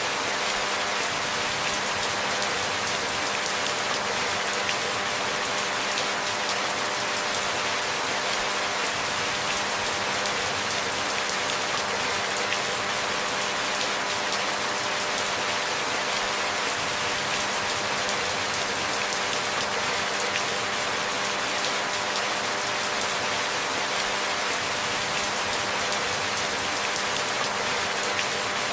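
Steady rainfall: an even hiss of many small drops that does not change, with a faint steady hum underneath.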